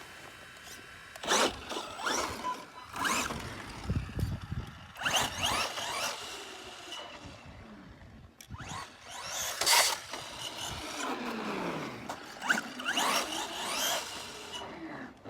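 Arrma Gorgon RC monster truck on a 3S battery, its upgraded electric motor whining through about five sharp throttle bursts, the pitch sweeping up and down and sliding away as it coasts between them.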